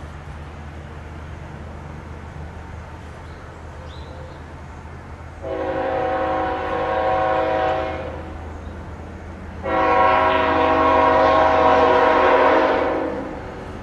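Freight locomotive air horn sounding two blasts, the second one longer and louder, over the steady low drone of the diesel locomotive running.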